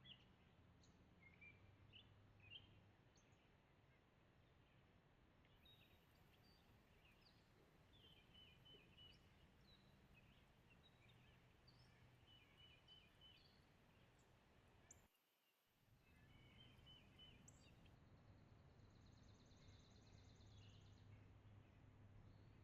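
Faint natural ambience with scattered small songbird chirps and short call phrases, and a faster, higher trill near the end. The sound drops out for about half a second around fifteen seconds in.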